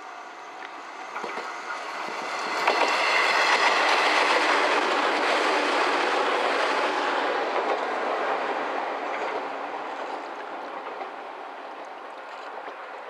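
Izuhakone Railway Sunzu Line electric train passing close by, its wheels clattering on the rails: it grows louder, is loudest from about three seconds in, then fades as it runs away.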